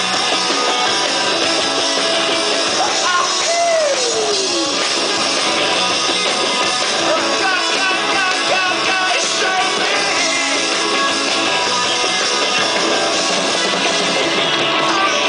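Live rock band playing at full volume, with electric guitars and singing. One long note slides downward in pitch about four seconds in.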